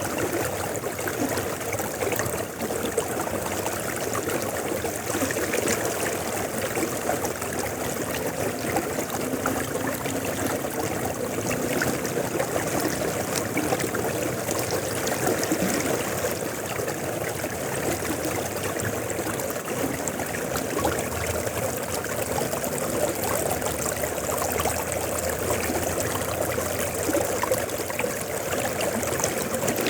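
River water flowing steadily over rocks, a continuous rushing and trickling.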